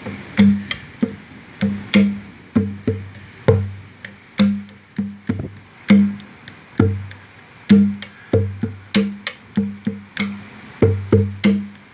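Conga drum played by hand in a running rhythm of about two strokes a second, mixing deep ringing open tones with sharper slaps.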